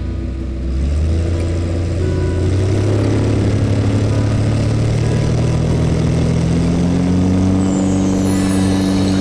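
Light aircraft's piston engine and propeller running loud as the throttle is opened, the engine note rising steadily for several seconds and then holding at a higher, even pitch.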